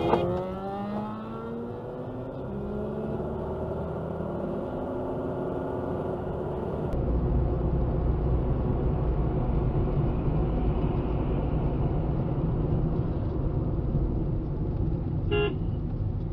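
Road traffic: vehicle engines running with steady low road rumble, and a short car horn toot near the end.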